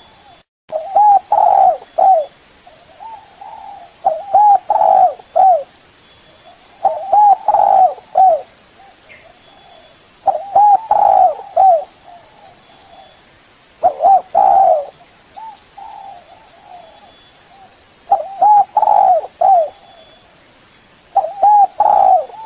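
Spotted dove cooing: a repeated phrase of three or four short coos, given seven times at intervals of about three to four seconds, with fainter coos in between. It is the male's call to rivals.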